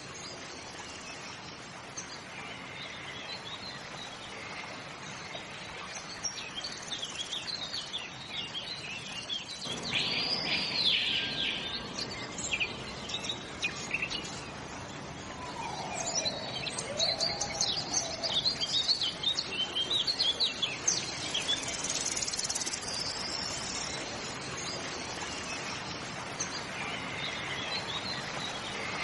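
Several birds chirping and calling over a steady outdoor hiss, busiest in the middle, with a couple of lower sliding calls partway through.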